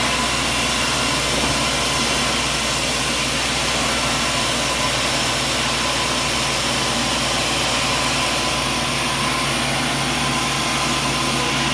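Sawmill machinery running steadily: a constant engine-like hum with an even rushing noise over it, holding the same pitch and level throughout.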